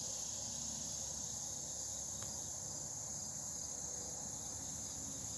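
A steady, unbroken chorus of insects singing high-pitched.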